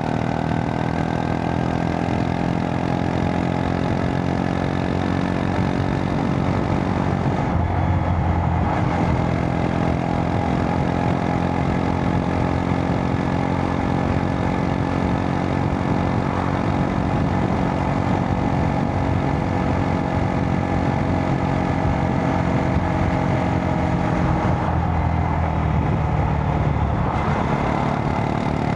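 Honda Monkey 125's single-cylinder four-stroke engine running steadily under way. The engine note shifts twice, about eight seconds in and again near the end, as the revs change.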